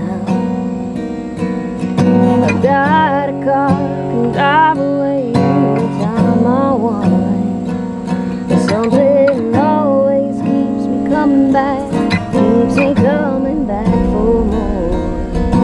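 Strummed acoustic guitar accompanying a woman singing a slow song, her held notes wavering with vibrato.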